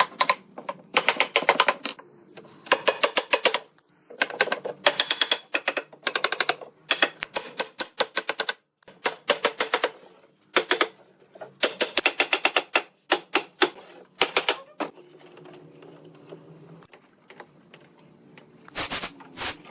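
Bursts of rapid, sharp mechanical clicks or taps, several a second, in groups of about a second with short pauses between. They stop a few seconds before the end, and two louder strokes come near the end.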